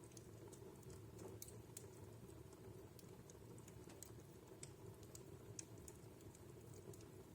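Wood fire crackling in a fireplace: faint, irregular small pops and snaps, several a second, over a steady low rumble.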